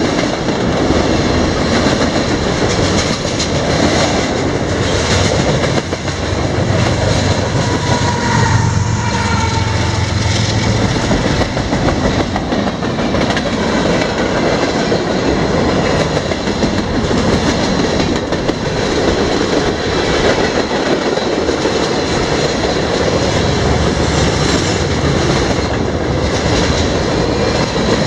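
Freight cars rolling past at track side, a steady loud rumble with the clickety-clack and rattle of steel wheels over the rail joints.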